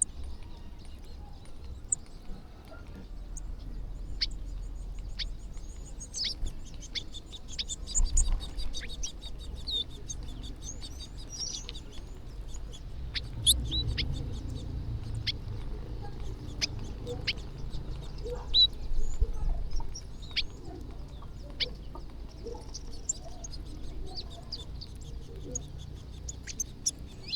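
A large flock of birds chirping and calling while feeding, with many short, sharp chirps overlapping and a quick trill a few seconds in. A low, steady rumble runs underneath.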